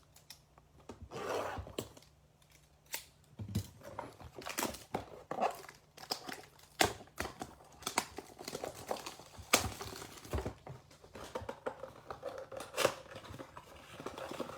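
A Topps Chrome blaster box of trading cards being opened by hand: wrapper and cardboard tearing and crinkling, with foil card packs rustling and clicking as they are pulled out.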